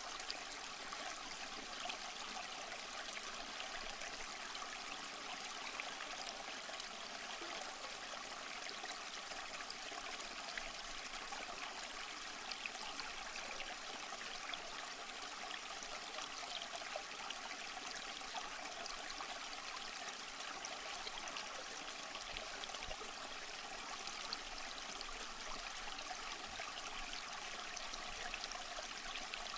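Small stream flowing over rocks: a steady, even rush and trickle of water with no breaks.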